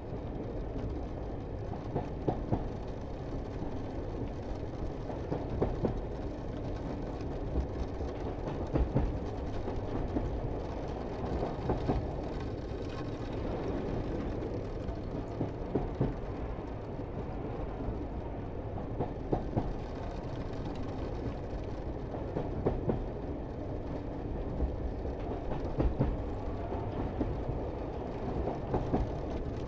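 Pikes Peak cog railway train running: a steady low rumble with irregular sharp clunks every second or two.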